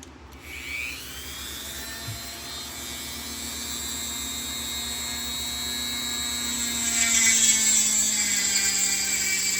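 Dremel rotary tool spinning up with a quick rising whine, then running at a steady high pitch. About seven seconds in it gets louder and rougher, and its pitch sags a little as the bit starts cutting.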